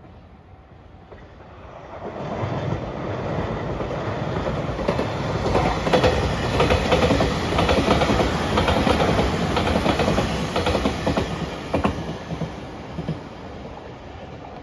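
A JR Shikoku 8000-series electric limited express passes at close range, its wheels clattering over the rail joints. The sound builds from about two seconds in, is loudest midway, and fades as the train runs off into the distance.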